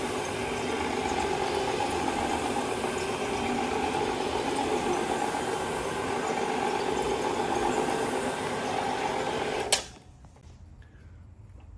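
Carpet-cleaning machine's motor running steadily, then switched off with a sharp click near the end, leaving only faint background noise.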